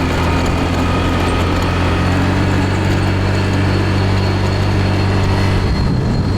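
Small rental moped engine running steadily under way, a constant low drone that changes pitch about five and a half seconds in, with wind and road noise.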